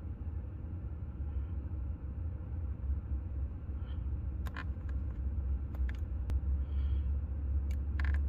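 Steady low rumble heard in a 2015 BMW 328i xDrive, with a few sharp clicks between about four and eight seconds in, most likely the dash button being pressed and held to reset the engine-oil service reminder.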